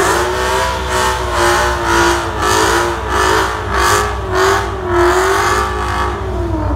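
A 1000-plus horsepower 2015 Ford Mustang drag car doing a burnout: the engine is held at high revs with the rear tyres spinning in smoke. The engine note pulses about twice a second and drops off near the end.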